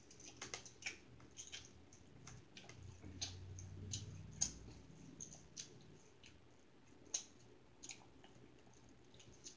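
A person chewing a mouthful of pork and vegetables close to the microphone: soft, irregular mouth clicks and smacks.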